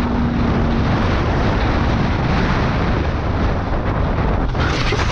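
Loud, steady rush of wind and road noise from a moving motorcycle, with wind buffeting the microphone.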